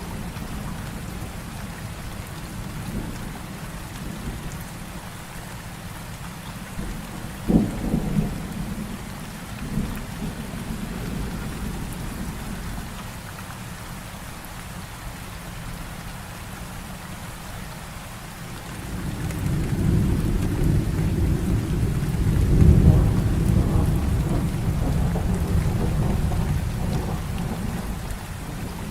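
Heavy rain falling steadily in a thunderstorm. A sharp thunderclap comes about a quarter of the way in, and in the second half a long, low roll of thunder builds up and dies away.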